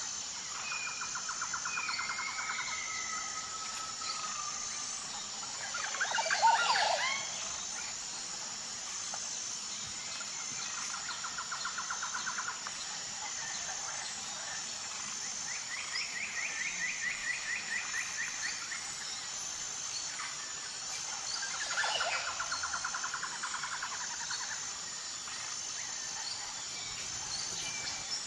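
Birds singing in short, rapid trills, with two louder bursts of sweeping chirps, one about six seconds in and one about twenty-two seconds in, over a steady high insect chorus that pulses evenly.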